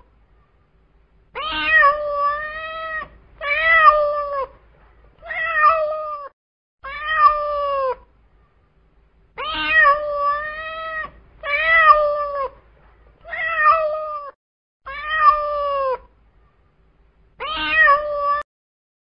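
Long-haired colourpoint cat meowing over and over: nine drawn-out meows about a second each, roughly every two seconds, each ending with a drop in pitch.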